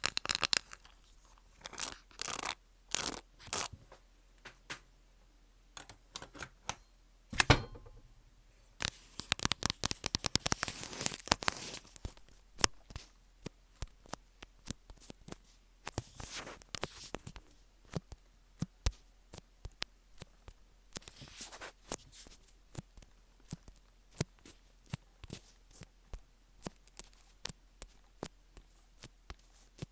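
Close-up ASMR triggers on an earphone microphone: crisp clicks and tapping with scratchy, tearing-like rubbing. There are dense flurries of scratching near the start and again about ten seconds in, then a steady run of separate sharp clicks, several a second.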